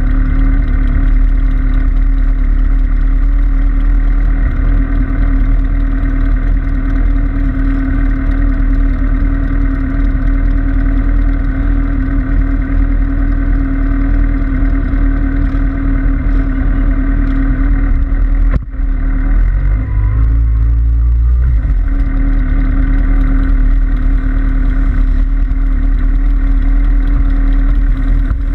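Several sport motorcycle engines idling together, a steady hum over a heavy low rumble, with a brief dip in level about two-thirds of the way through.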